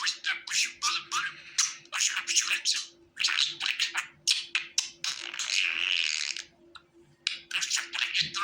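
Budgerigar chattering: fast runs of chirps and warbles, with a pause of about a second near the end.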